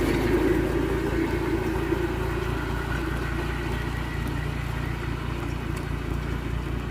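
Old tractor engine running steadily at idle, an even rapid chugging. A louder, higher part of the sound dies away over the first couple of seconds, leaving a steady idle.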